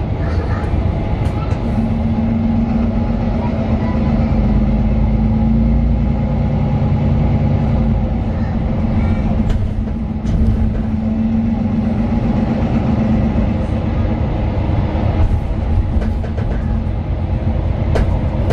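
Inside a Mercedes-Benz Citaro 2 city bus on the move: its OM 936 diesel engine and ZF Ecolife automatic gearbox running with a steady low rumble of engine and road. A steady hum runs through most of it and fades out about two-thirds of the way in, with a few light rattles and clicks from the bus body.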